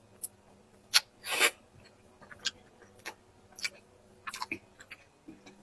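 Close-miked mouth sounds of eating: crisp, irregular crunches and wet chewing clicks, with the loudest bite and crunch about a second in, then smaller chewing clicks.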